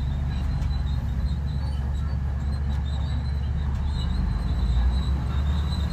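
Bulldozer's heavy diesel engine running steadily with a deep rumble, swelling slightly near the end. A thin high squeak comes and goes over it.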